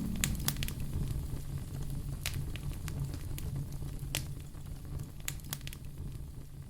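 Wood fire crackling: scattered sharp pops and snaps over a low steady rumble, slowly fading.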